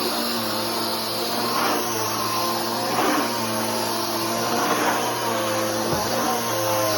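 Bissell Powerforce Helix upright vacuum cleaner running steadily on floor, a constant motor hum and whine. Brief swells of noise come every second or two.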